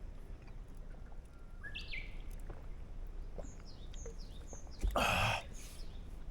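Wild birds calling outdoors: a couple of downward-sweeping calls, then a run of short high chirps. About five seconds in, a brief loud scuffing noise beginning with a thump covers them.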